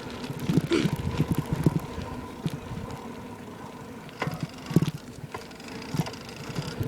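Bicycle riding along, heard through a camera taped to the frame: irregular rattles and knocks from the bike, busiest near the start and again around the middle. The rider puts such noise down to the chain hitting the plastic.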